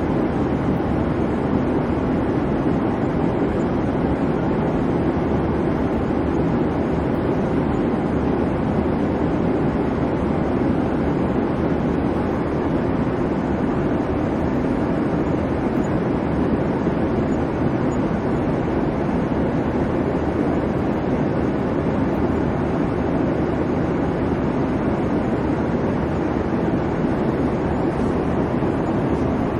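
Steady airliner cabin noise in flight: an even, low rumble and rush of the engines and the airflow over the fuselage, with no changes.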